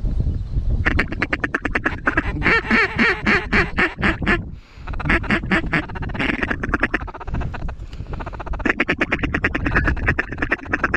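Rapid, rhythmic duck quacking in three long runs, a brief pause between each, over a low wind rumble.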